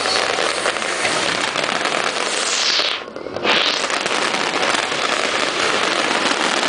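Fireworks display: a dense, continuous crackle of many small bursts and bangs, which briefly drops away about three seconds in.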